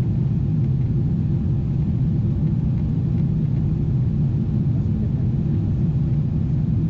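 Steady low drone of a Boeing 777-300ER in flight, heard inside the cabin: its GE90 engines and the airflow around the fuselage.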